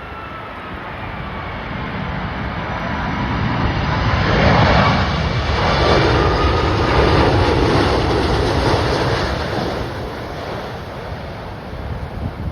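Airbus A330-243MRTT tanker jet on landing approach, its twin Rolls-Royce Trent 772B turbofans passing by. A rumble swells to its loudest around the middle and then fades, with an engine whine that slides down in pitch. Gusting wind buffets the microphone throughout.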